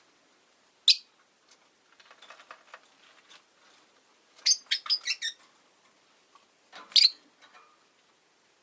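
Rosy-faced lovebirds giving sharp, high-pitched chirps: one call about a second in, a quick run of about six around the middle, and another near the end, with fainter scratchy clicks in between.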